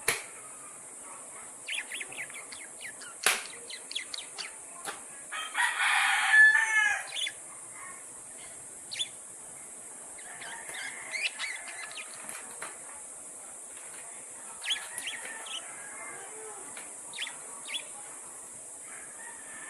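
Lovebirds chirping in short, sharp, scattered calls, with a louder harsh burst of calling about five to seven seconds in, over a steady high hiss.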